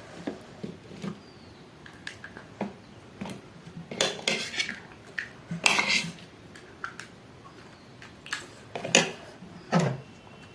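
Spoon and dishes clinking and tapping in a run of short, scattered clinks, with two sharper knocks near the end.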